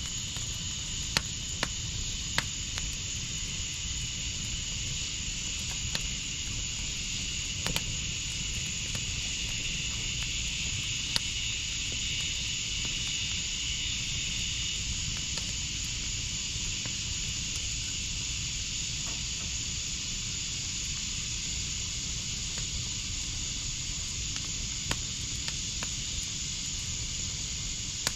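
Wood fire burning in a fire pit: a steady hiss and rustle with sharp crackling pops every few seconds. A faint high steady tone sits under it and fades about halfway through.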